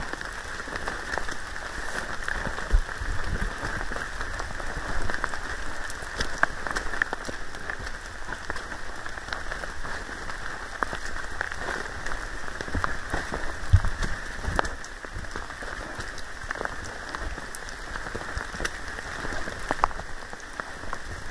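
Steady heavy rain, with many separate drop hits ticking close to the microphone and a few dull low knocks.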